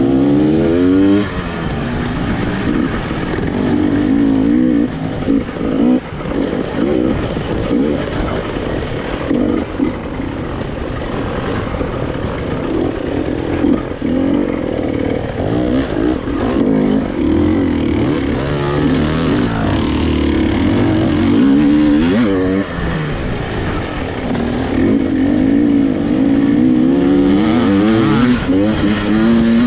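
KTM EXC 300 TPI's single-cylinder two-stroke engine ridden hard off-road, revving up and down again and again as the throttle opens and closes and the gears change. A few short thumps come through along the way.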